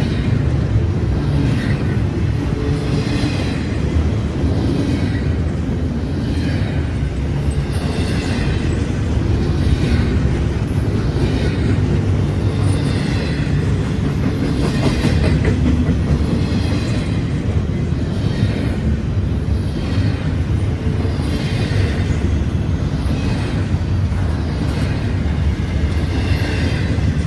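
Double-stack container train rolling past: a steady low rumble of steel wheels on rail, with a clickety-clack recurring about once a second as wheelsets cross rail joints.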